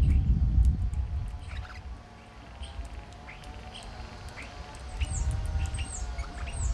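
Small birds chirping with many short, high calls, including a few quick falling whistles in the second half. A low rumble fades out after about a second and comes back near the end.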